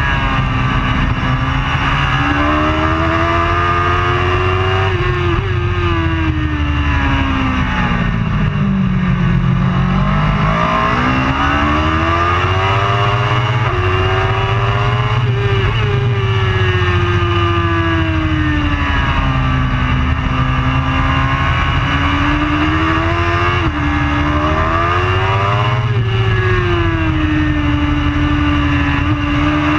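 Racing superbike engine at full throttle, its note climbing in steps through upshifts, then sweeping down under braking and downshifts before climbing again, several times over.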